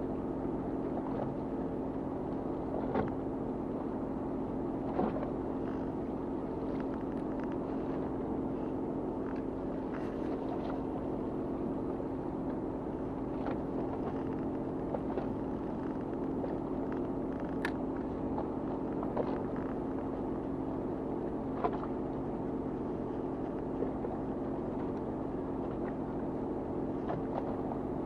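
Fishing boat's engine running steadily, with a few faint clicks and knocks now and then.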